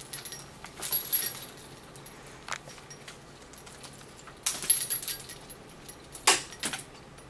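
Toys hanging in a parrot's climbing tree jangling and rattling as a Cape parrot climbs and plays among them, in three short bouts.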